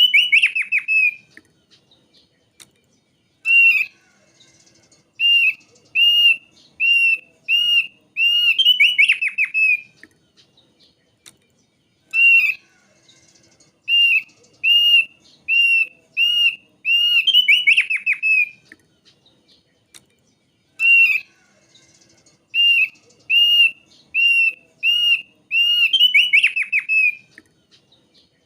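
Thick-billed heleia (opior paruh tebal) singing: a series of clear whistled notes, each rising and then falling, about one and a half a second, ending in a fast trilled roll. The same phrase comes three times, roughly every eight and a half seconds.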